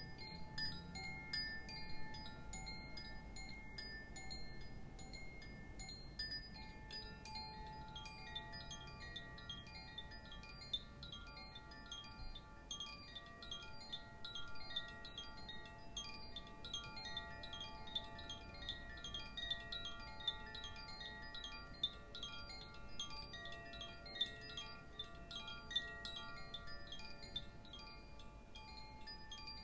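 Chimes ringing softly, struck lightly and irregularly many times so that their tones overlap and sustain. The strikes grow busier about seven seconds in.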